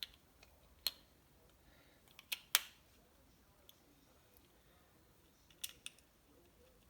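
A handful of short, sharp metallic clicks and taps, two close pairs among them, from small screws and hand tools being handled on a workbench.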